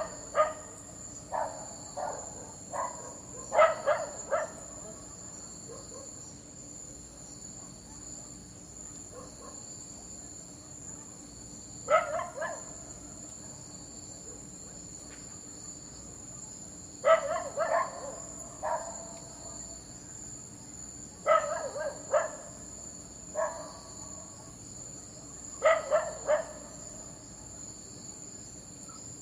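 A dog barking in short bursts of two to four barks, with long pauses between them, over a steady high chorus of crickets.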